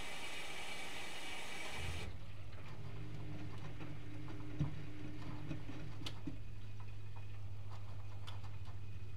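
Privileg Multispar 5110 washing machine running a 75 °C boil wash. A steady hiss stops abruptly about two seconds in, leaving a low hum with scattered clicks, one sharper click and light ticking.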